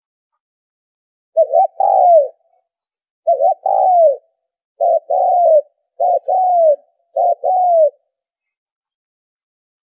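Spotted dove cooing: five loud call phrases about a second and a half apart, each two short coos and then a longer note that falls away at the end. The calls stop for the last couple of seconds.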